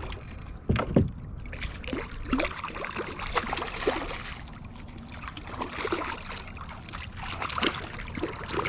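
Water splashing and sloshing against a kayak, with irregular small knocks and two sharp knocks about a second in.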